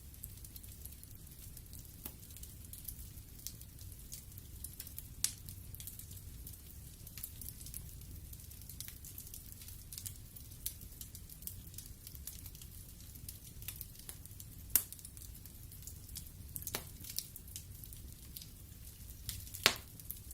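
Wood fire burning in a fireplace: a steady soft hiss and low rumble with scattered crackles, and a few sharp louder pops of the burning wood, the strongest near the end.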